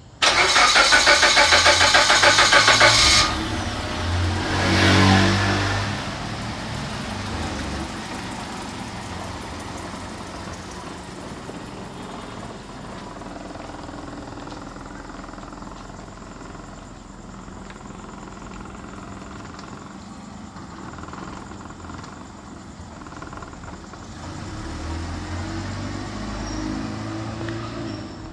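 Car engine started: the starter cranks for about three seconds, the engine catches with a brief rev about five seconds in, then settles to a steady idle. Near the end the engine note rises again as the car pulls away.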